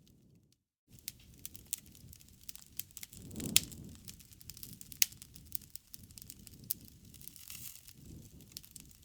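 Wood fire crackling, with many small snaps over the low rush of the flames and two louder pops, about three and a half and five seconds in. The sound drops out briefly near the start.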